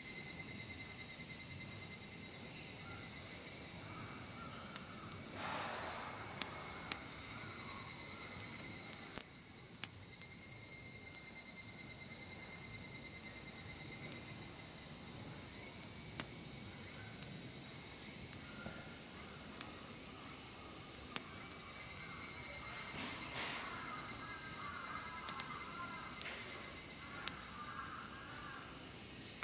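Dense, steady, high-pitched chorus of insects, with a brief dip in level about nine seconds in. A few faint clicks and some faint chirping near the end.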